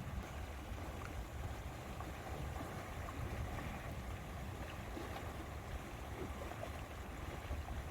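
Lake ambience: a steady low wind rumble on the microphone with gentle water lapping and small splashes.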